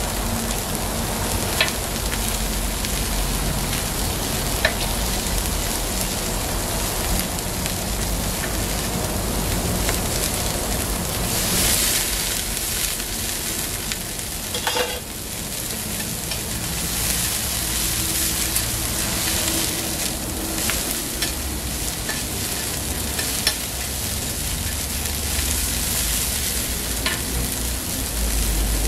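Sliced sausages, bean sprouts and a fried egg sizzling in oil on a hot flat-top griddle, a steady hiss. A few short sharp clicks from metal tongs and a spatula knocking on the griddle plate.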